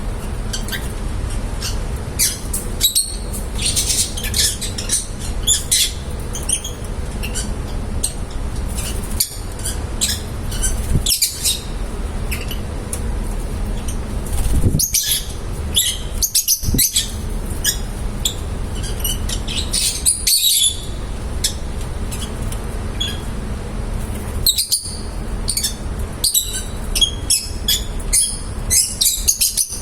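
Pet lovebirds chirping and squawking in short, high, repeated bursts over a steady low hum.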